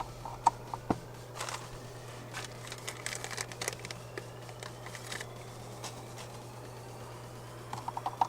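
Wires and plastic parts being handled and pushed into place, giving scattered light clicks and rustles over a steady low hum.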